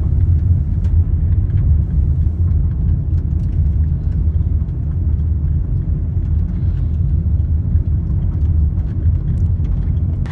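Boat engine running with a steady low rumble, with a few faint clicks over it.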